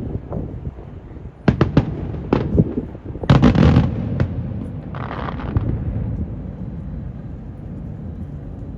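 Aerial fireworks bursting: a quick run of sharp bangs about a second and a half in, a louder crackling burst around three seconds in, and a softer one near five seconds. Wind buffets the microphone throughout as a low rumble.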